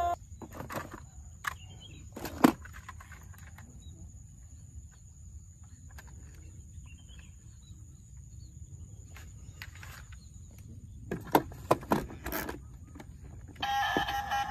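Scattered clicks and clacks of die-cast toy cars being handled and set down on a hard surface, loudest about two and a half seconds in and again in a quick cluster near the end.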